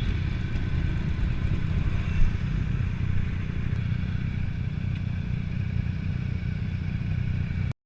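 Motorcycle engine running steadily, a low rumble with hiss over it, cutting off suddenly near the end.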